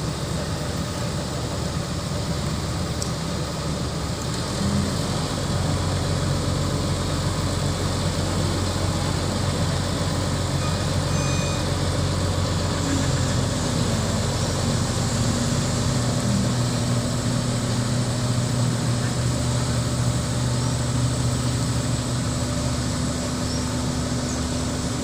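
Crane's diesel engine running steadily, its hum growing louder about five seconds in and its note shifting slightly a few seconds later.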